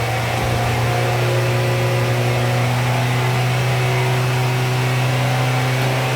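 A vehicle engine running steadily at a held speed, with an even low hum and no change in pitch.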